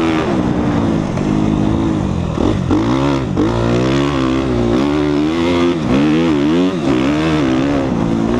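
2014 Suzuki RM-Z250 single-cylinder four-stroke dirt bike engine being ridden hard, its pitch climbing and dropping back about six times as the throttle is opened and closed.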